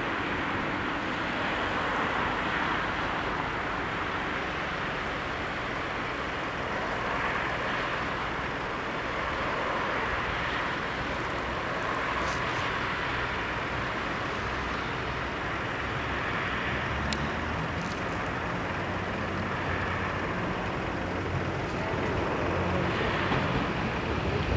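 A steady rushing background with the low engine hum of an approaching train. The hum comes in about halfway through and grows louder towards the end.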